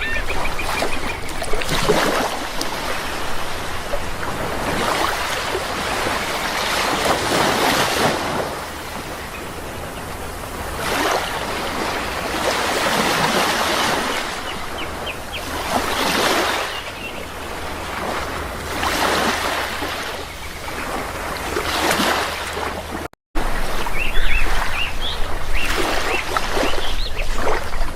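Sea waves washing in and falling back in repeated swells every few seconds, with small birds chirping now and then. The sound drops out for a split second about 23 seconds in, and is a little louder afterwards.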